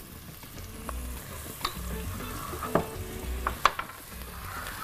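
Minced onion and garlic sizzling in oil in a pot while being stirred with a silicone spatula. A few sharp knocks of the spatula against the pot stand out above the steady frying hiss.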